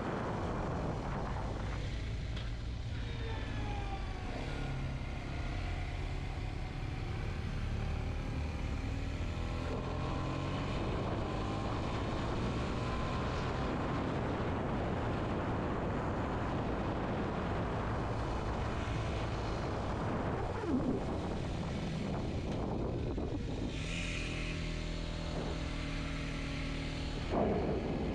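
Kawasaki Z125's single-cylinder engine running under way, its pitch rising and falling with throttle and gear changes. Two short louder moments come through in the second half.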